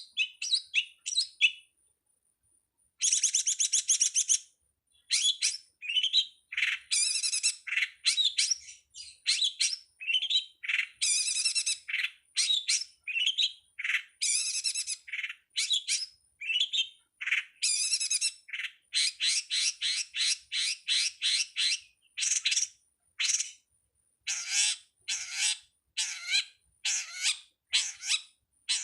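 Long-tailed shrike (pentet/cendet) song recorded for masteran: rapid runs of sharp chirps and buzzy trill phrases separated by short pauses, with a brief gap about two seconds in.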